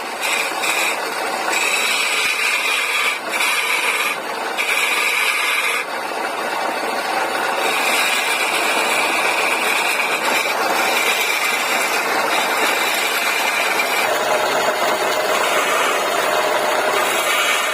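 Woodworking lathe running while a vase is being turned, with the tool cutting the spinning wood. A high whine cuts in and out repeatedly, and a lower steady tone takes over for the last few seconds.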